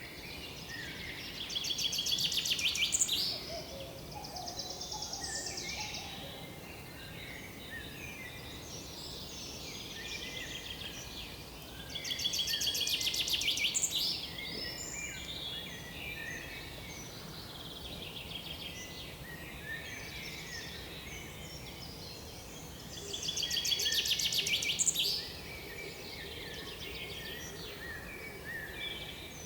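Forest birdsong: one songbird sings a loud, fast, trilling phrase about two seconds long three times, roughly every eleven seconds. Other birds give short, softer chirps in between over a faint steady background hiss.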